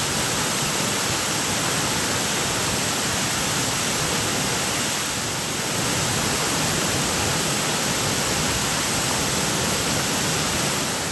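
Large waterfall pouring close by: a loud, steady rush of water with no breaks.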